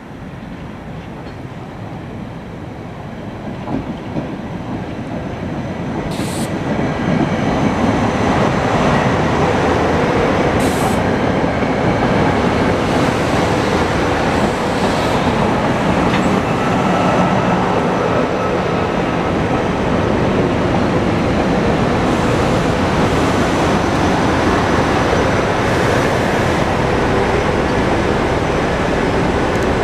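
SEPTA Silverliner IV electric multiple-unit train pulling into the station and rolling along the platform. It grows louder over the first eight seconds, then holds as a steady rumble of wheels on rail, with two brief high hisses about six and eleven seconds in.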